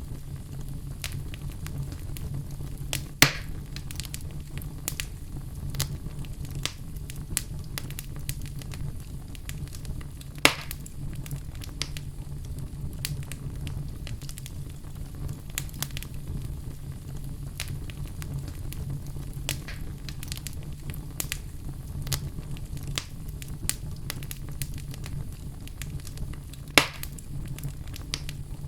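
Wood fire burning in a fireplace: a steady low rumble of flames under continual scattered crackles, with three louder pops at about 3, 10 and 27 seconds in.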